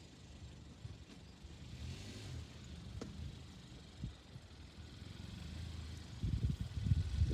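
Low wind rumble on the microphone, quiet at first, then buffeting loudly in irregular gusts near the end, with a couple of faint clicks in between.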